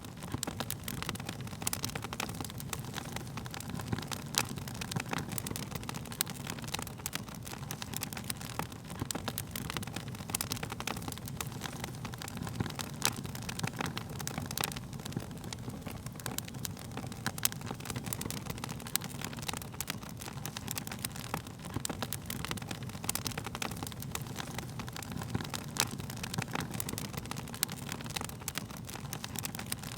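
Wood fire crackling: frequent, irregular sharp pops and snaps over a steady low noise of burning.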